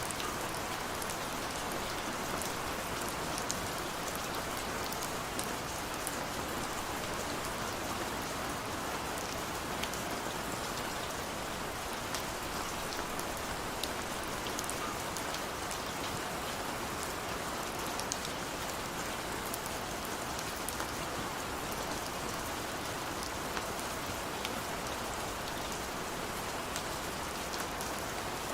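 Steady rain falling, with many small drops ticking on a hard surface over a constant wash.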